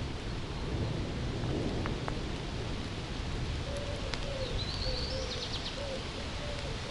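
Steady rain falling, with birds calling through it: a low, wavering cooing call starts about halfway through, and a short high trill from a small bird comes in the middle.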